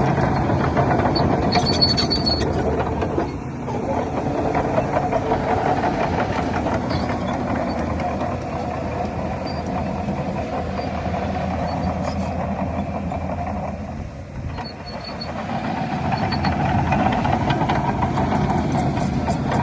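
Shantui DH17 bulldozer's heavy diesel engine running steadily under load. The level dips briefly about three seconds in and again around fifteen seconds. Faint high squeaks come through now and then.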